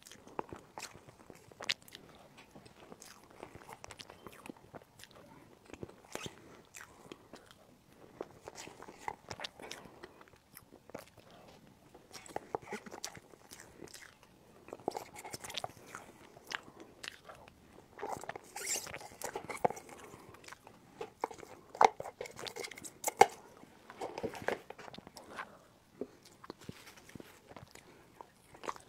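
Close-miked eating sounds: chewing and biting of a soft layered cream cake, with sharp clicks and scrapes of a spoon in its plastic box.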